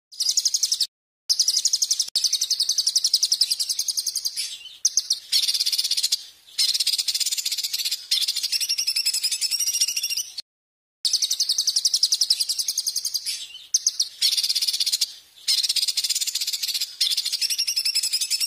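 Songbird singing long runs of very fast, high trills, broken by short pauses. The recording is edited and drops to dead silence abruptly twice, about a second in and about ten seconds in.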